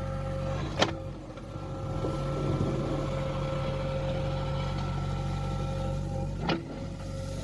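Backhoe loader's diesel engine running steadily under hydraulic work, with a steady whine above the engine hum. Two sharp knocks, one about a second in and one near the end, stand out above it.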